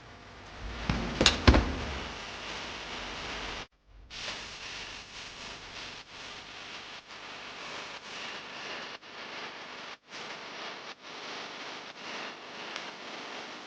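Two sharp knocks in quick succession about a second in, like a kitchen cabinet door or drawer being shut, followed by light clicks and clatter of items being handled and put away.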